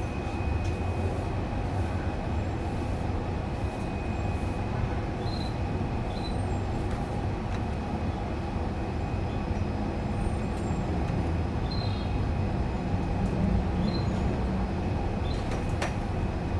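Steady low rumble of background noise, like distant traffic or machinery, with a faint steady high whine. A few short, faint high bird chirps come through about five seconds in and again around twelve to fourteen seconds in, and a single click sounds near the end.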